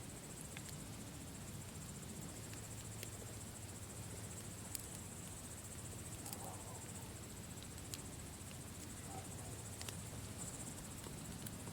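Campfire crackling, with a handful of sharp pops scattered through, the loudest about five seconds in, over a low steady rumble of the fire. Behind it runs a steady high chorus of crickets chirping.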